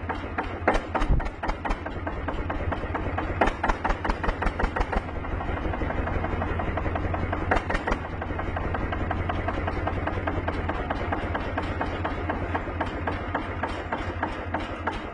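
Hand tractor's engine running steadily, with irregular knocks and clatter over it, thickest in the first few seconds and again about seven seconds in.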